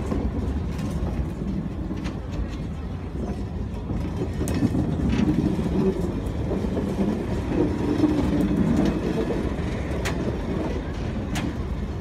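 Heritage train's vintage passenger coaches rolling past on the track: a steady low rumble with occasional sharp clicks from the wheels on the rails.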